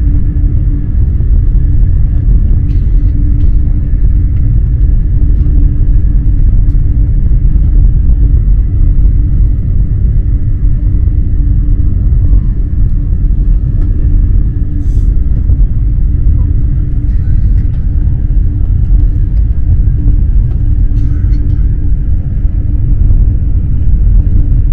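Eurostar high-speed electric train running, heard from inside the carriage: a loud, steady low rumble with a constant hum throughout.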